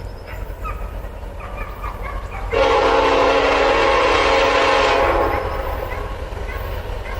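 Diesel freight locomotive horn sounding one long blast of about two and a half seconds, a chord of several notes, about two and a half seconds in. A low rumble from the train runs underneath.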